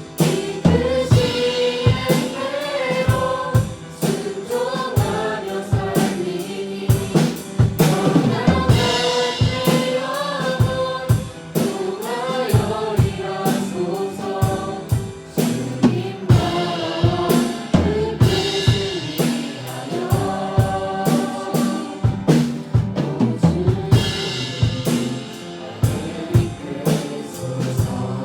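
Live worship band playing a praise song: voices singing the melody over a drum kit keeping a steady beat, with piano accompaniment.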